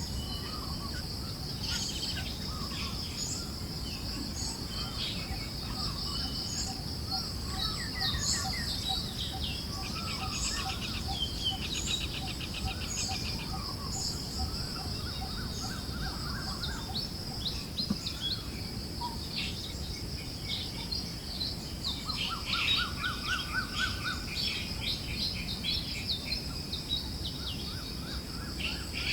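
Forest birds chirping and trilling, several kinds calling at once, over a steady high insect drone. A low, soft rush of wind runs underneath.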